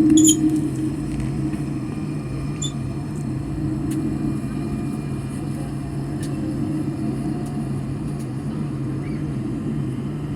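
Airliner cabin noise: the aircraft's engines giving a steady drone with a low hum, heard from inside the cabin. A brief louder swell with a few faint ticks comes right at the start.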